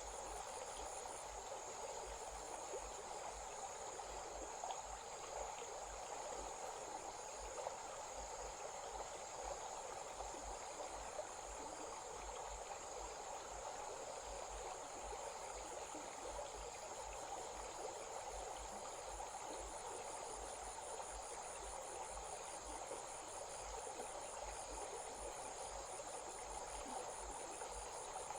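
Stream water running with a steady rush, under the continuous high trilling of crickets, one of them pulsing very rapidly.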